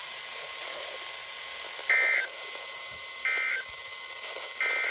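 Weather radio broadcast: three short two-tone digital data bursts, about a second and a half apart, over steady radio hiss. They are the SAME end-of-message code that closes the flood watch alert.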